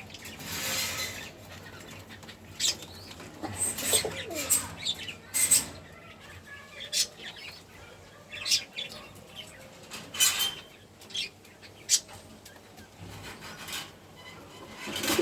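Pigeons flapping their wings in short, irregular flurries.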